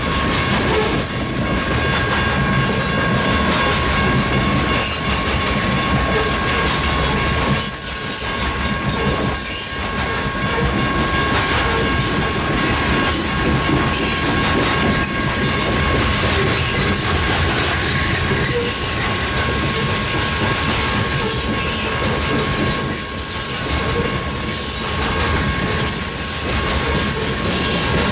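Coal hopper cars of a freight train rolling past, with a steady clatter of wheels over the rail and a constant high flange squeal running underneath.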